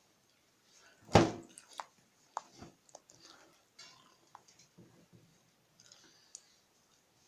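Household objects being handled: one loud knock with a short ring about a second in, then a run of lighter clicks and taps.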